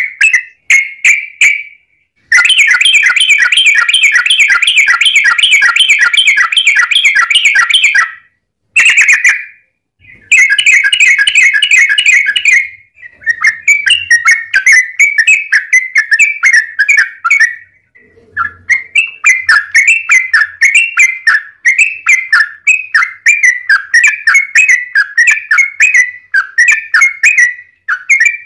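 Yellow-vented bulbul (trucukan) singing in long rapid runs of bubbling, chirping notes, with a few short pauses between bursts.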